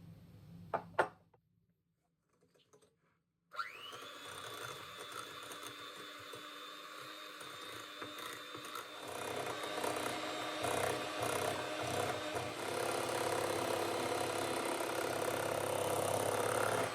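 Two sharp clicks, then a small electric motor starts suddenly and runs steadily with a high whine. The running sound grows louder and fuller about halfway through.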